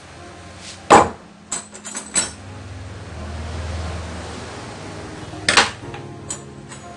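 Sharp metallic knocks and clanks: one near the start, a quick cluster a second later, and another pair near the end. A low hum swells and fades between them.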